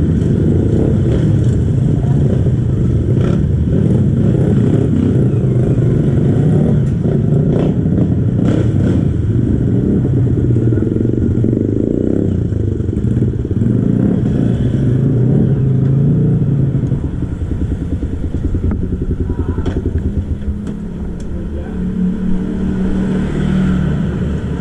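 Kawasaki KLX trail bike's single-cylinder four-stroke engine, stock exhaust, running under load on a dirt trail, with a few sharp knocks and clatter from the bike. About two-thirds of the way in, the engine drops to lower revs and the sound gets quieter.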